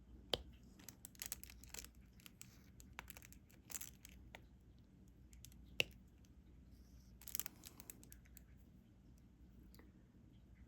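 Diamond painting being worked by hand: light plastic crinkling and scattered small clicks as the supplies and canvas film are handled, with one sharp click about six seconds in and a burst of rustling past seven seconds.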